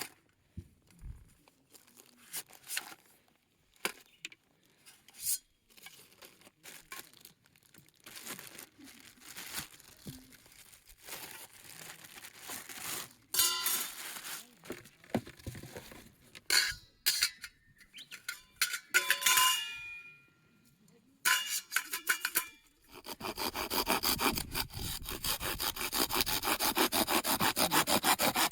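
Camp gear being handled: scattered knocks and scrapes with a few metal clinks. Then, about 23 s in, a hand saw starts cutting wood with fast, even back-and-forth strokes that grow louder.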